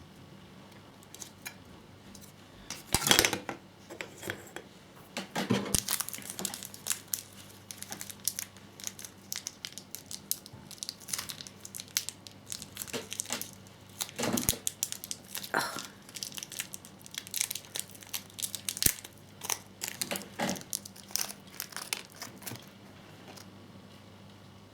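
Small plastic model-kit parts and packaging being handled on a worktop: irregular clicks, taps and brief crinkling rustles.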